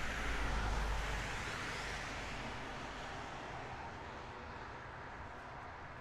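A train running past: a steady rushing rumble that is loudest in the first second or two, then slowly fades as it draws away.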